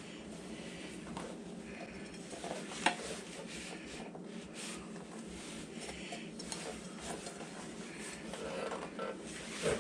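Light clinks and clatter of small hard objects being handled, with one sharper click about three seconds in.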